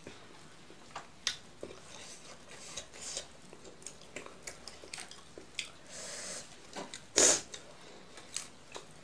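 Close-miked eating by hand: chewing of rice and curry, with scattered small clicks and crackles of fingers working the food on the plate. About seven seconds in comes one much louder crisp snap as fresh mustard leaves are torn apart.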